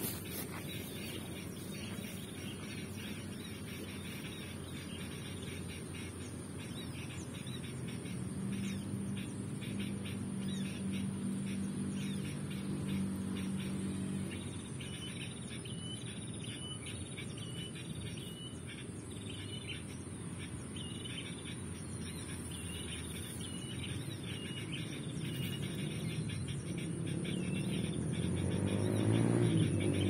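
Small birds chirping, with a run of short, evenly repeated chirps in the middle, over a steady low outdoor rumble. Near the end a low engine sound builds and grows louder.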